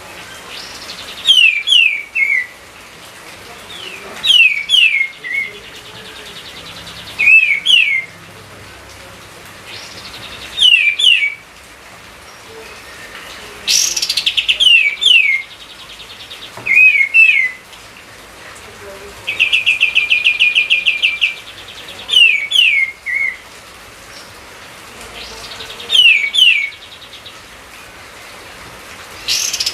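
A songbird singing short phrases of a few quick, falling whistles, repeated about every three seconds. About two-thirds of the way through it gives a fast, even trill lasting about two seconds.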